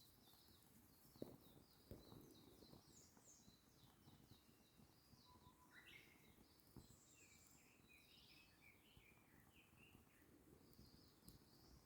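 Faint birdsong: small birds chirping in quick repeated phrases, with a few soft pops from a wood campfire crackling.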